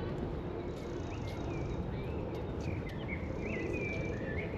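A small songbird singing a run of short, warbling whistled notes that rise and fall, starting about a second in, over a steady background hiss of outdoor ambience.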